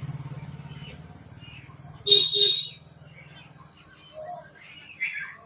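Bird calls: a loud two-part call about two seconds in, then fainter chirps, over a low droning hum that fades out partway through.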